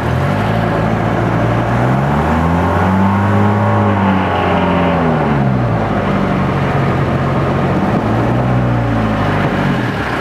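Small river boat's engine revving, its pitch climbing for a few seconds and dropping back, then rising and falling again once more near the end.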